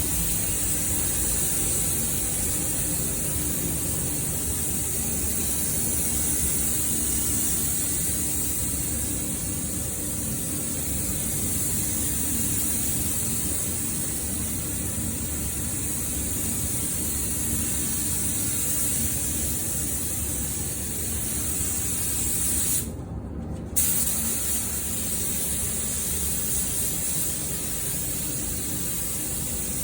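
Steady hiss of rushing air over a low rumble, unbroken except for a brief drop-out about 23 seconds in.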